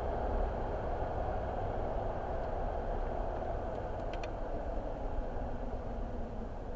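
Steady car road noise while driving on a highway: an even rumble and hiss of tyres and engine, with a few faint clicks about four seconds in.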